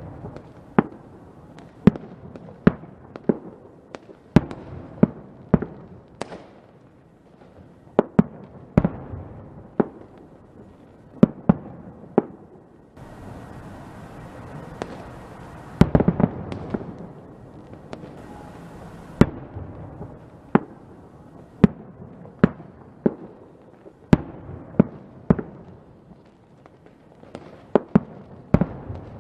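Fireworks going off in an irregular series of sharp bangs, about one or two a second, over a steady crackle. There is a dense burst of bangs about halfway through.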